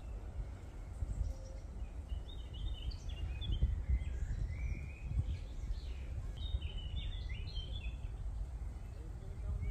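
Songbirds singing short, quick warbling phrases, off and on through most of the stretch, over a steady low rumble.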